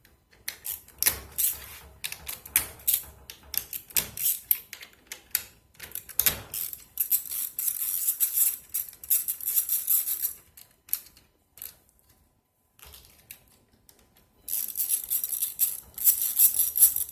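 Ratchet wrench with a 10 mm socket clicking in quick runs as nuts are backed off a Nissan Leaf battery pack's module studs, with scattered metal clicks and knocks in between. The long runs of fast ticking come in two spells, with a short quiet gap between them.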